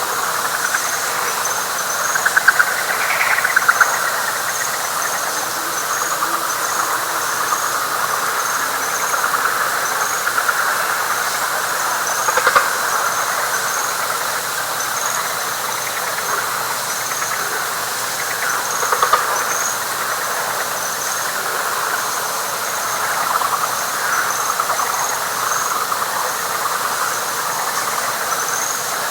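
Night chorus of frogs: a dense mass of pulsed trills, swelling louder a few times. Above it an insect gives a short high chirp about once a second.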